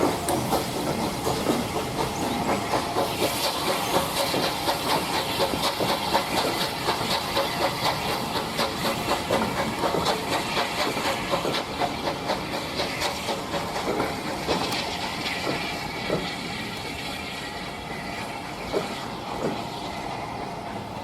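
Steam locomotive working with regular exhaust beats over a steady hiss of steam, the beats fading and the sound growing quieter toward the end.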